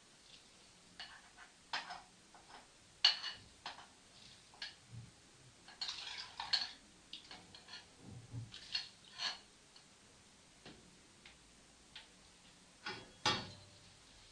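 Irregular light clicks and clinks, a dozen or so spread unevenly, with a couple of dull low thuds about five and eight seconds in.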